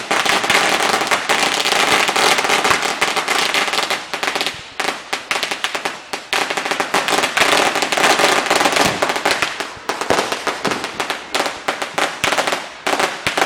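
Fireworks going off in a dense, rapid barrage of crackling pops and bangs, thinning into more separate pops after about ten seconds.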